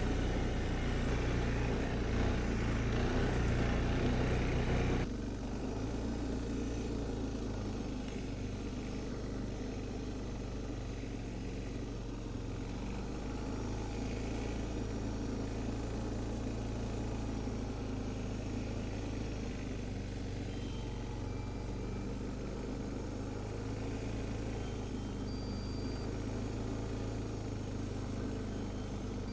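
A small off-road vehicle's engine runs under throttle on a trail ride. About five seconds in it drops suddenly to a quieter, steady running note.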